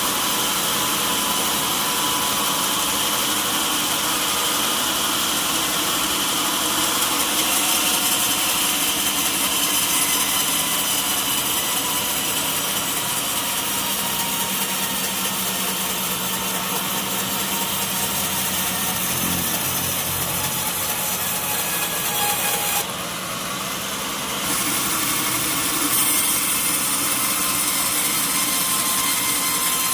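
Sawmill saw cutting through a mahogany log with a steady grinding noise. The sound drops abruptly for a second or two near the end, then resumes.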